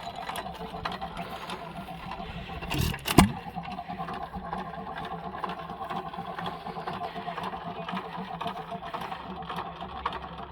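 A 1925 Hercules hit-and-miss engine, a single-cylinder stationary engine, running with a steady rhythmic mechanical clatter. There is one loud bang about three seconds in.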